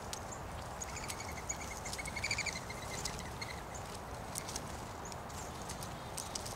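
A small bird calling a rapid series of short, evenly spaced notes for about two seconds, starting about a second in. Under it runs a steady outdoor background with scattered small ticks.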